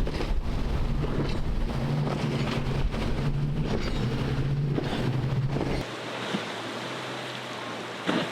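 Boat engine running over the wash of waves, with wind buffeting the microphone; about six seconds in the sound cuts abruptly to a quieter, steadier wash of water.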